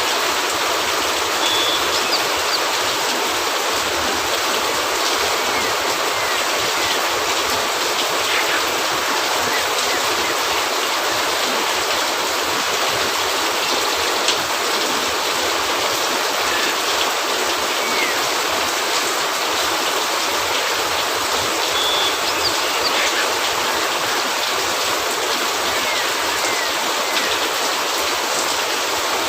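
Steady rain falling on a cabin roof, a dense even hiss, with faint scattered pops from a crackling wood fire.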